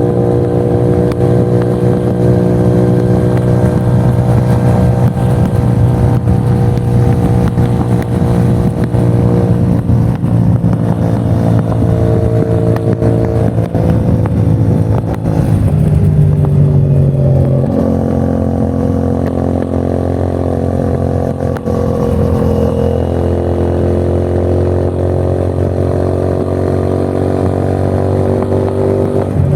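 A CFMOTO 450NK's parallel-twin engine and exhaust running under way at fairly steady throttle. The note holds steady, then drops and shifts pitch a few times a little past halfway before settling again.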